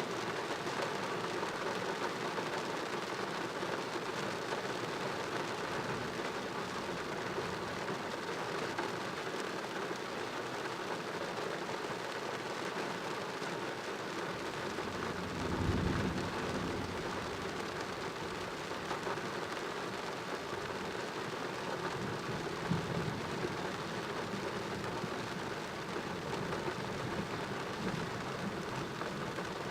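Steady rain falling during a thunderstorm, with a low rumble of thunder swelling for about two seconds past the middle.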